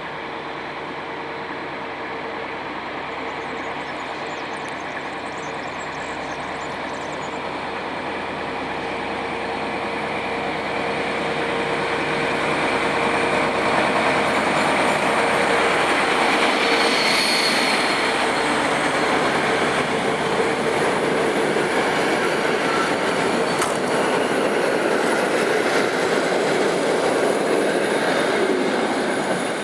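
SU45 diesel-electric locomotive hauling a passenger train, its engine and rolling wheels growing louder as it nears and staying loud for most of the second half. A brief high squeal comes about halfway.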